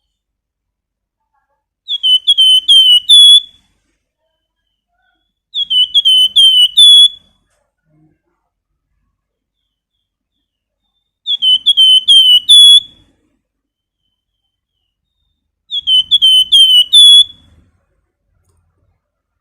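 A flamboyan songbird singing a whistled phrase of four or five quick, down-slurred notes ending on an upturned note, about 1.5 seconds long. It sings the phrase four times, with pauses of a few seconds between.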